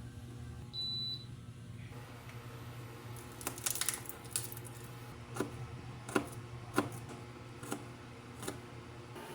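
A short high electronic beep, broken once, about a second in, over a steady low hum; then, from about a third of the way in, a run of sharp irregular clicks and taps, about eight of them.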